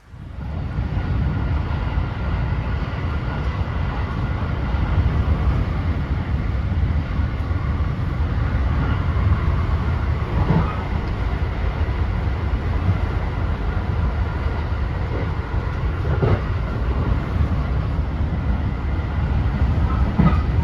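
Train running on rails: a steady, heavy rumble with a faint steady whine above it and an occasional knock from the wheels, three times in all.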